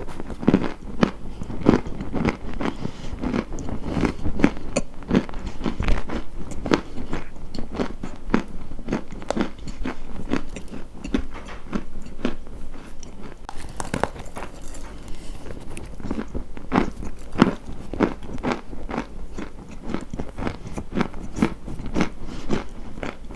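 Close-miked crunching as something brittle is bitten and chewed, many sharp crackling crunches a second without a break.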